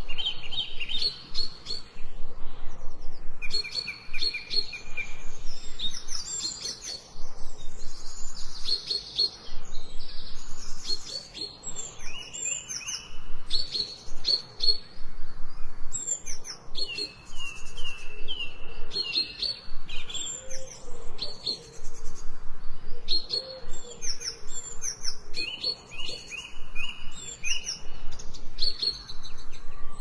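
Songbirds singing: a busy, continuous run of high chirps, short trills and repeated whistled notes, several phrases overlapping.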